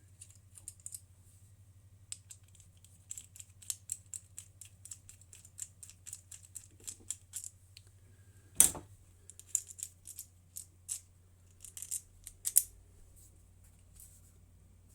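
Small carburettor parts being handled and fitted by hand on the bench: a run of light metallic clicks and ticks, with a sharper knock about eight and a half seconds in and another near twelve and a half seconds. A steady low hum runs underneath.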